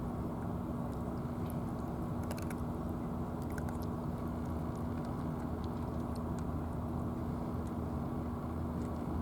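A steady low mechanical drone with a constant hum. A few faint sharp clicks fall between about two and four seconds in.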